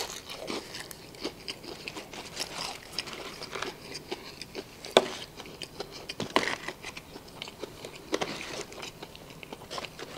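Close-miked chewing of a fried chicken sandwich with tortilla chips inside: a run of small crackly crunches, with a few sharper, louder crunches midway.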